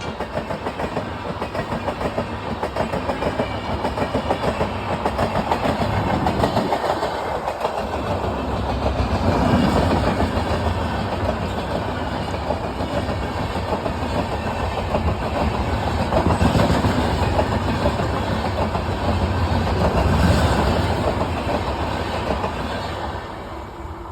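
A train running on its rails, with steady rumble and a fast clickety-clack of wheels over the track. It swells and eases slightly and fades near the end.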